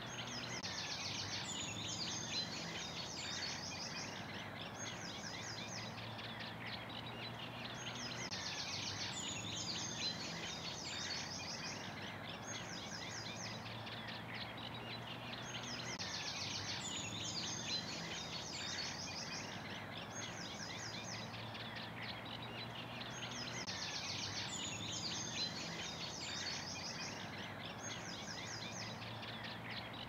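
Birdsong with fast chattering phrases, the same stretch repeating about every seven and a half seconds, over a faint steady low hum.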